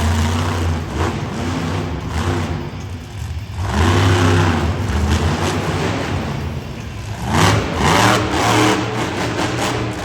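Monster truck engine revving hard in repeated surges, its pitch rising and falling. It peaks near the start, about four seconds in, and again around eight seconds in.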